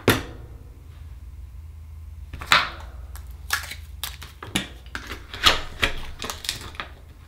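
A string of sharp clicks and knocks, uneven and a second or less apart, from Akoya oyster shells and a metal opening tool being handled, over a steady low hum.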